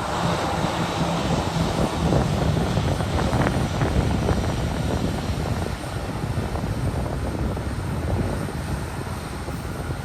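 Jet airliner engines heard as a steady rumble, easing off a little after the middle.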